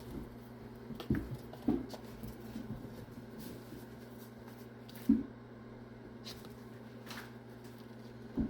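Kittens moving about their play area, making a few soft, short bumps and rustles; the loudest comes about five seconds in. A steady low hum runs underneath.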